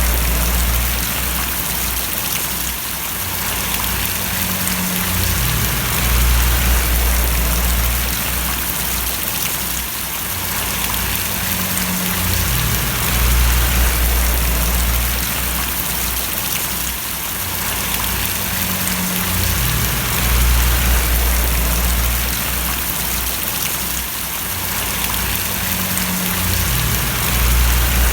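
Rain falling and splashing steadily, with a low rumble underneath that swells and eases about every seven seconds.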